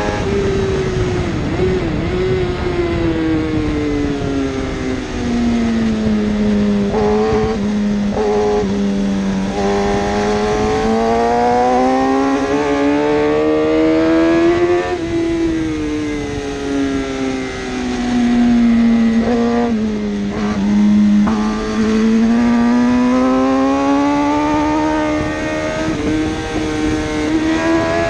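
1000cc superbike racing engine running hard, its note falling slowly, then rising, then falling and rising again as the revs drop and climb. Brief extra engine notes from other bikes come in about a quarter of the way through and again past the middle.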